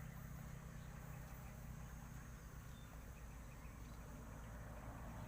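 Quiet outdoor background: a steady low hum with a faint even hiss, and no distinct event.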